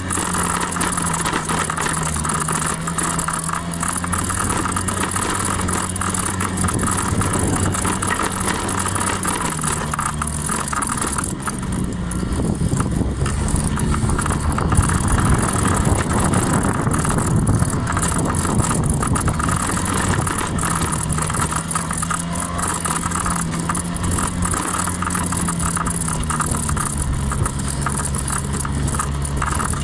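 Honda 50 cc scooter engine running on the move, its pitch rising and falling with the throttle, with a louder rush of noise for several seconds in the middle.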